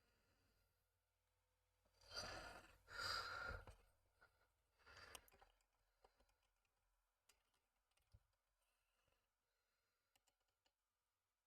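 Near-quiet workbench: a couple of breathy sighs about two and five seconds in, then a few faint clicks of small model parts being handled.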